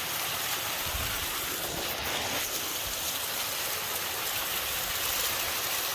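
Steady hiss of running water, with a few soft low thuds.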